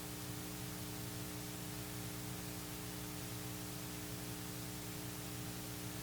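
Steady hiss with a low electrical hum, the background noise of the recording or sound system, with no other sound.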